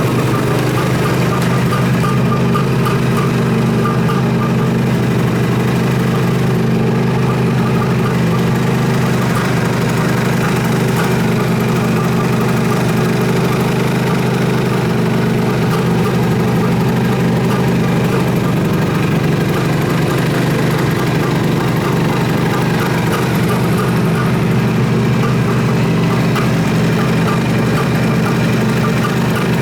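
Suzuki GT550's air-cooled two-stroke inline three-cylinder engine idling steadily.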